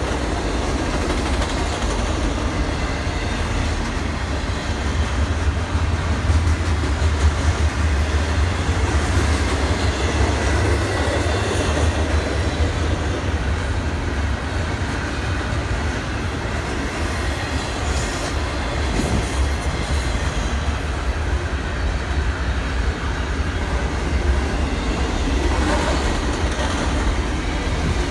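Train at a station making a steady low rumble, with a few faint clanks about two-thirds of the way through and again near the end.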